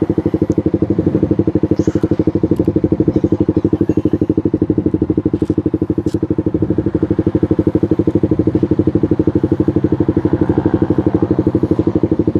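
Suzuki GSX-R150's single-cylinder four-stroke engine idling steadily through a Proliner racing exhaust, with a loud, even, rapid pulse.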